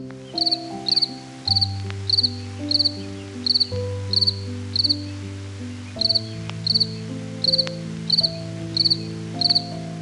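A cricket chirping: short pulsed chirps, about two a second, with a brief pause midway. Soft background music of sustained notes plays underneath.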